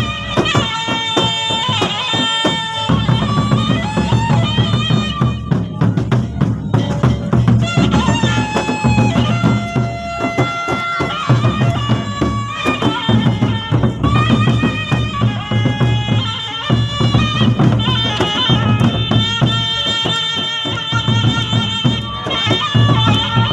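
Gendang beleq ensemble playing: large drums beating a dense, steady rhythm under a high, reedy wind melody that moves between held notes.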